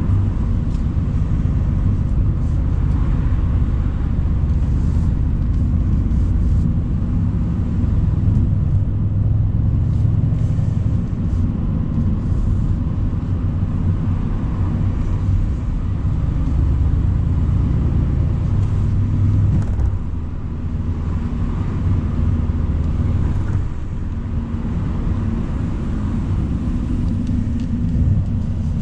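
Mercedes-AMG C63's twin-turbo 4.0-litre V8 running under steady cruising load, a deep rumbling engine note over tyre and wind noise heard with the convertible top down. The engine note eases briefly twice in the latter part, as if the driver lifts off the throttle.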